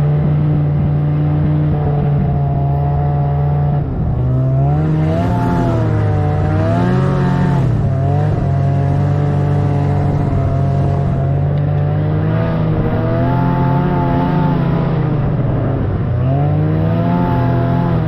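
Snowmobile engine running under way, its pitch rising and falling as the throttle is eased and opened, a few seconds in and again near the end.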